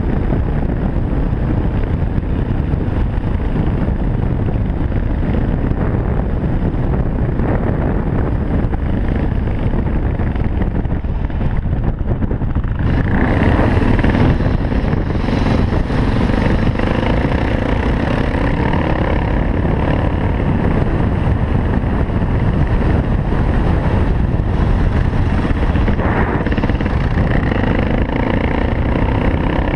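Cagiva W16 motorcycle engine running steadily under way, mixed with heavy wind rush on a bike-mounted camera. About 13 seconds in the sound changes abruptly at a cut, and the engine's steady note stands out more clearly after it.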